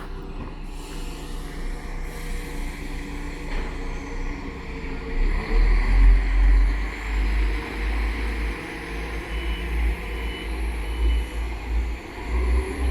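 Class 172 Turbostar diesel multiple unit's underfloor diesel engines running at the platform as the train gets ready to depart; the deep rumble grows louder about five seconds in. Three short high beeps sound a little past the middle.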